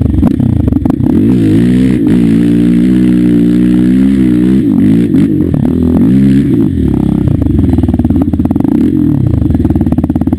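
Small off-road vehicle engine running hard, its pitch rising and falling repeatedly as the throttle is worked, with some clattering.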